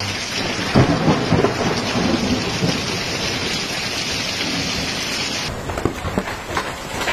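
Hailstorm with heavy rain, hail and water pounding down in a dense, loud hiss. About five and a half seconds in the sound thins and separate hard hailstone knocks stand out.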